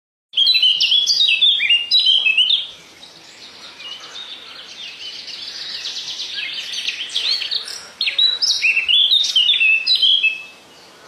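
Birds singing: a loud, rapid run of chirps for about two seconds, then softer chirping from several birds, and the loud chirping song comes back about eight seconds in.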